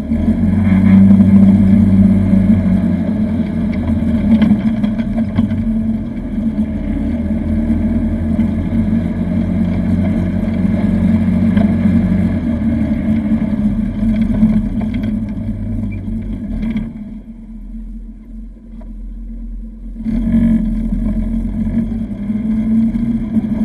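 Side-by-side UTV engine running under way. About seventeen seconds in it drops to a quiet low hum for roughly three seconds, as when the throttle is let off, then picks back up.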